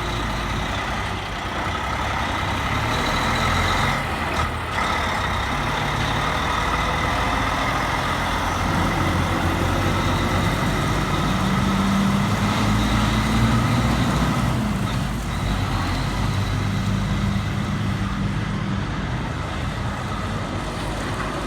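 Cab-over Kenworth truck's diesel engine running, with a steady whine above the engine note. Past the middle the engine note rises for a few seconds, then drops.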